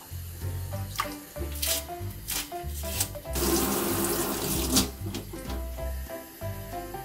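Kitchen tap water running onto a peeled onion being rinsed in a stainless steel sink, for about a second and a half in the middle, over background music with a steady bass beat. A few short, sharp knocks come in the first half.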